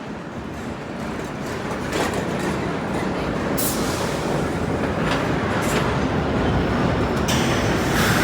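Vintage R1/R9 subway train running on the tracks, its rumble slowly growing louder, with a few irregular sharp clanks from the wheels and rails.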